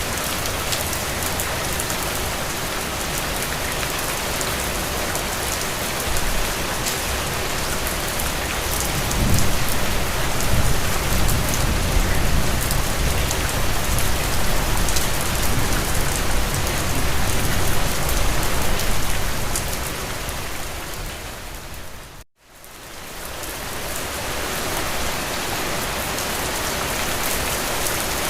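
Steady heavy rain falling on a surface, an even hiss of drops. About a third of the way in, a low rumble swells and lingers for several seconds before easing off. Near the end the sound dips suddenly to nothing and fades back in, an edit point in the looped recording.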